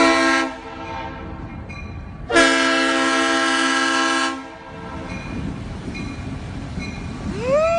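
Train air horn: a short blast, then a long blast of about two seconds, both a steady multi-note chord, over a low rumble. Near the end a rising wail begins and levels off.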